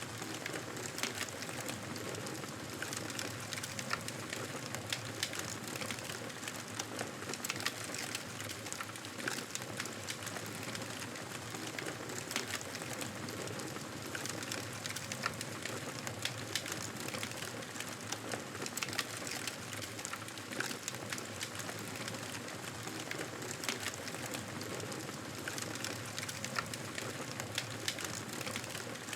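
Wood fire in a fireplace crackling, with frequent short sharp pops over a steady hiss.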